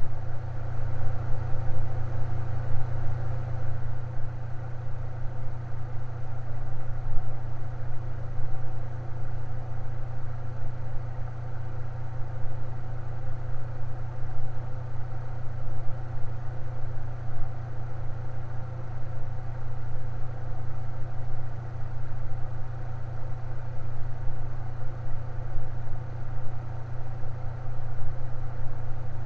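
Electric fan running steadily, a constant low hum with a fainter whirring above it.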